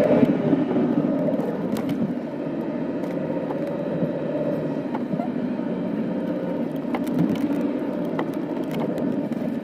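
A car driving, heard from inside the cabin: steady engine and road noise.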